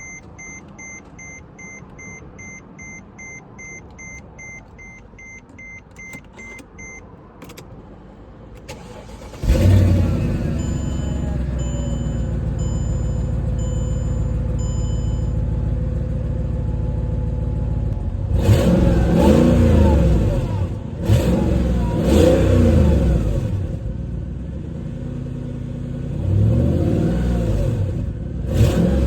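Mercedes-AMG E55 Kompressor's supercharged 5.4-litre V8 being started: an in-car warning chime beeps steadily for about seven seconds, a few clicks follow, then the engine catches with a loud burst and settles into a steady idle while a slower chime beeps. From about eighteen seconds in it is revved in several quick blips that rise and fall back to idle, with two more blips near the end.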